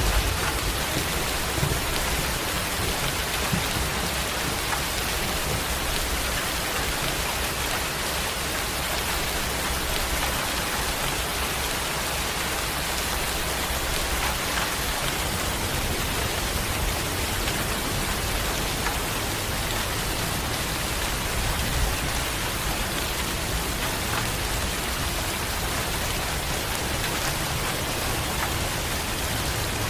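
Steady, dense rain falling on a surface, an even hiss with no break. A low thunder rumble dies away in the first moment.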